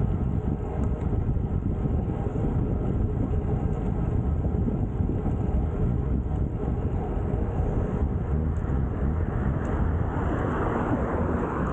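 Steady rumbling rush of wind on the microphone and road noise while riding a road bike along a road; a louder rushing swells briefly near the end.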